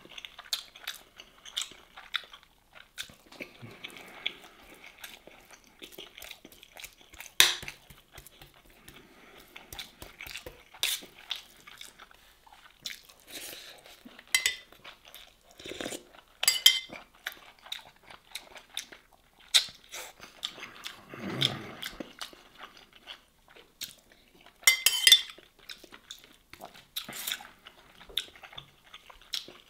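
A person chewing grilled fish and rice close to the microphone, with many small wet mouth clicks, and now and then a fork clinking and scraping on a metal tray.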